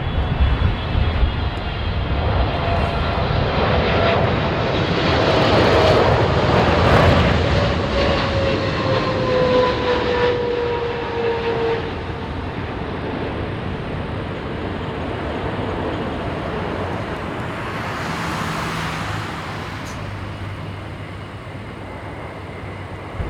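Jet airliner passing close on its landing approach, its engine whine falling in pitch as it goes by, loudest a few seconds in. Gusty wind buffets the microphone throughout.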